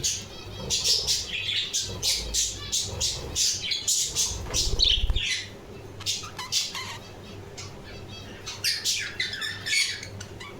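Budgerigars chirping and squawking in quick, overlapping calls, busiest in the first half and then thinning to scattered chirps.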